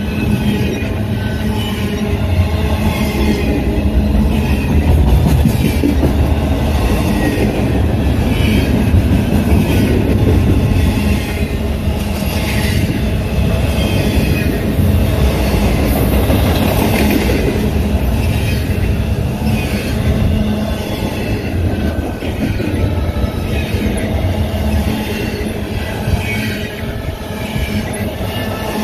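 Union Pacific freight train rolling past close by: steel wheels squealing on the rails over a steady, heavy rumble of the rail cars.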